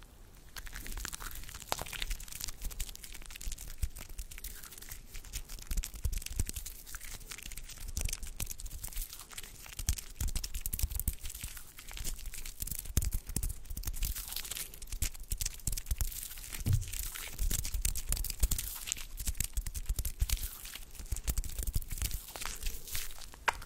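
Close-miked ASMR hand sounds: skin rubbing and rustling, with a dense run of small crackles and clicks.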